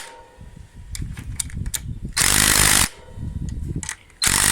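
Air impact wrench run in short bursts on the handlebar clamp bolts: one burst about two seconds in and another starting near the end, with lighter metal clattering between.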